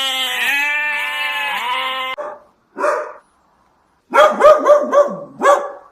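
Animal calls: one long wavering call lasting about two seconds, a short call, then a quick run of about six sharp calls in the second half.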